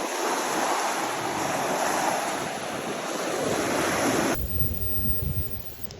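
Sea surf washing on the shore as a steady hiss that cuts off suddenly about four seconds in. After that, low gusts of wind buffet the microphone.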